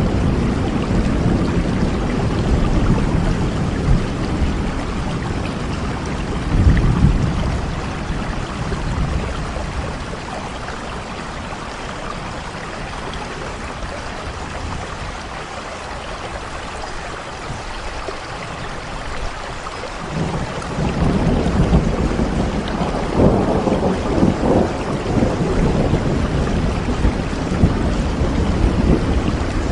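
Steady rain with low rolling thunder. The rumble dies down about a third of the way in and builds again about two-thirds through.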